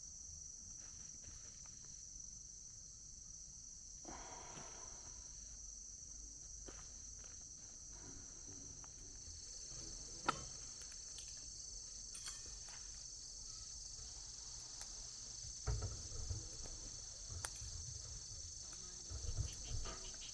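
Crickets chirping in a steady high-pitched chorus, with a few sharp clicks and some low thumps of handling in the later half.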